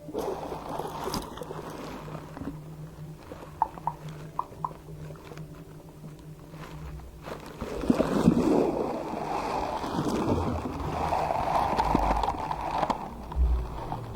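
Slime being squeezed and worked by hand, with wet squelching and a few small popping clicks. Quieter in the first half, louder squelching from about halfway through.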